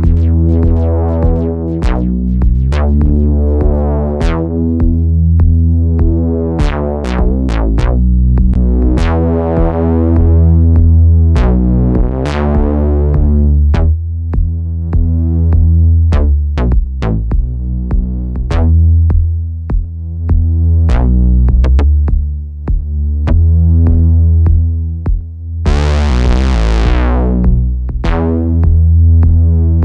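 Eurorack synthesizer patch with a drum-machine beat: a bass line through a Swenigiser Proto VCF/A filter, driven hot for a gritty tone, with the filter opening up and closing again in repeated sweeps. Near the end a bright, hissy sweep falls in pitch.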